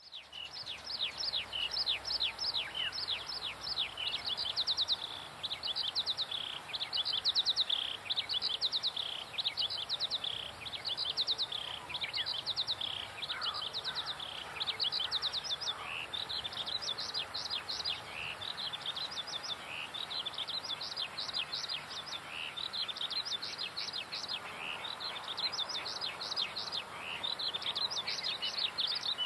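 Birds singing and chirping: quick runs of short, falling chirps, one run after another, over a faint steady hiss.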